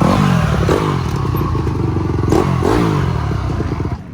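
Motocross dirt bikes racing past close by, their engines revving with sliding pitch as one passes at the start and another about two and a half seconds later. The sound drops off abruptly near the end.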